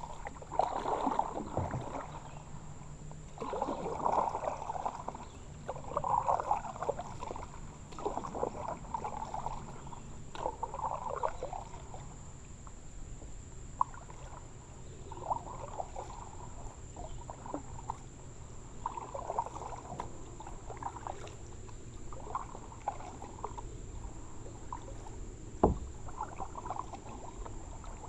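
Kayak paddle strokes dipping and splashing in the water, about one every two seconds, lighter in the second half. A single sharp knock a few seconds before the end.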